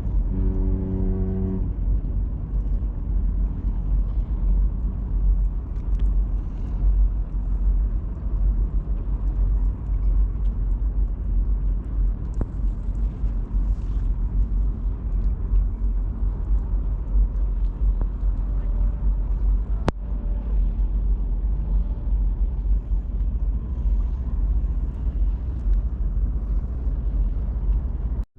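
Steady low rumble of wind buffeting the microphone, rising and falling in gusts, with a brief pitched hum in the first second and a half.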